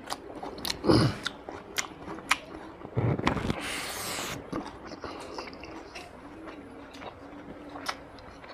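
Close-up mukbang eating sounds: a man chewing a mouthful of rice and mutton curry eaten by hand, with many sharp wet mouth clicks and lip smacks. A longer, louder noisy stretch comes about three seconds in as a handful of rice goes into his mouth.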